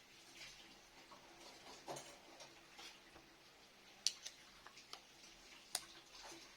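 Faint, irregular light clicks and taps, with two sharper clicks about four seconds and six seconds in.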